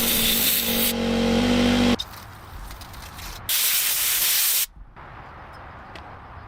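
A power tool runs with a steady hum under a loud hiss for about two seconds, then stops abruptly. A little later comes a burst of spraying hiss lasting just over a second.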